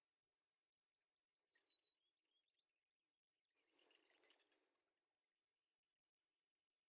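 Small birds chirping faintly: a run of thin, short, high cheeps, then a louder burst of chirping about four seconds in that dies away.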